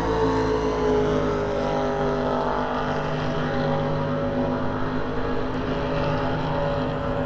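Race ski boat's engine running hard at steady high revs, its pitch dropping slightly in the first couple of seconds and then holding.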